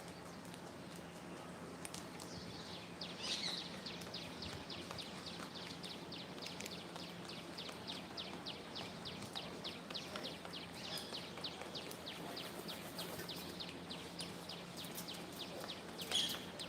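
A bird calling: a long, fast run of short, high, even chirps, with a louder call about three seconds in and another near the end.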